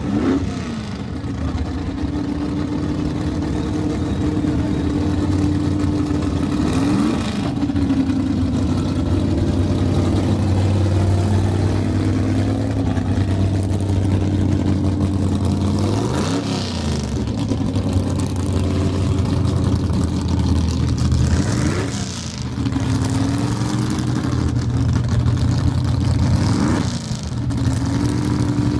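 Hot rod engine idling loud and steady, with brief throttle revs about five times that swing its pitch.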